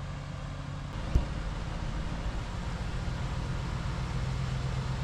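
Ram 1500 pickup's engine running steadily at low crawling speed, with one sharp knock about a second in as the truck works over the rocks.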